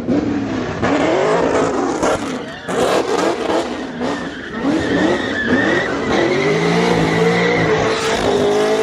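A performance car engine revving in a series of rising and falling blips, then a longer pull that climbs in pitch near the end.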